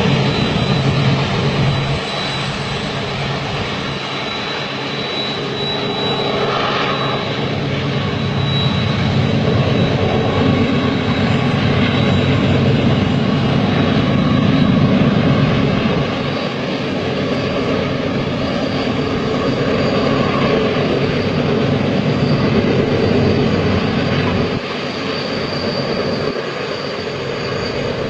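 A long train running past: a steady, loud rumble and roar of wheels on the track that swells and eases a little.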